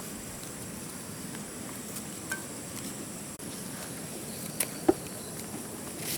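Steady high-pitched drone of insects, with a few light clicks and two sharp knocks in quick succession about five seconds in.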